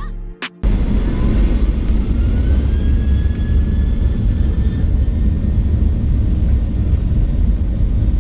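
Boeing 737-800's CFM56 jet engines heard inside the cabin: a loud, heavy rumble with a whine rising in pitch over about four seconds as the engines spool up, typical of thrust being set for the takeoff roll. A short bit of background music ends just before the engine sound begins.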